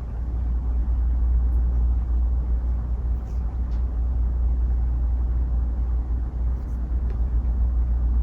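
Room tone: a steady low rumble with a few faint ticks.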